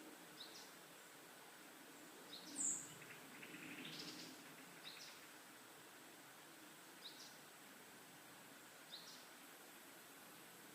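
Quiet forest ambience with birds: a short high chirp repeated about every two seconds, a brief, louder high note about two and a half seconds in, followed by a short twittering phrase, over a faint steady background hush.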